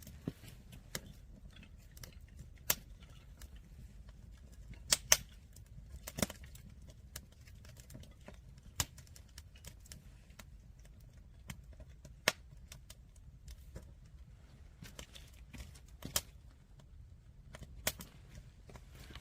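Wood fire in a stacked firewood tower crackling, with sharp irregular pops every second or so, the loudest a pair about five seconds in, over a low steady rumble.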